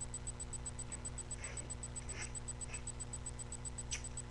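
A few faint rustles and scrapes of paper and tape being handled and pressed down, about 1.5, 2.2, 2.7 and 4 seconds in, over a steady low electrical hum with a fast, faint, even ticking.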